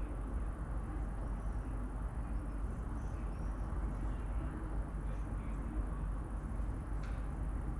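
Steady low outdoor rumble of distant traffic or wind, with faint scattered bird chirps and a brief click near the end.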